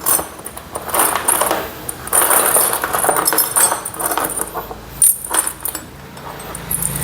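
Steel bolts clinking and rattling as they are handled and set into the clutch cover of a CGP 250cc motorcycle engine, in irregular bursts of metallic clatter.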